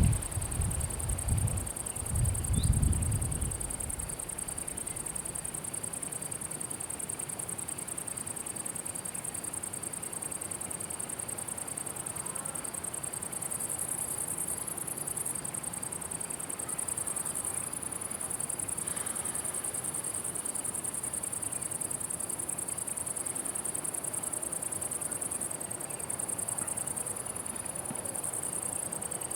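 Steady high-pitched chirring of crickets in meadow grass, carrying on without a break. A low rumble sits under it in the first few seconds, then fades.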